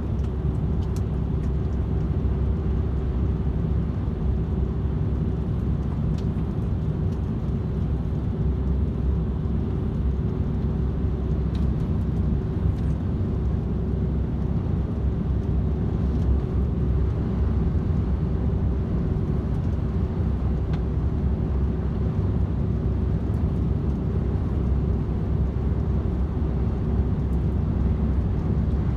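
DAF XF 510 truck cruising on the motorway: a steady drone of engine and tyre noise with a constant hum over it.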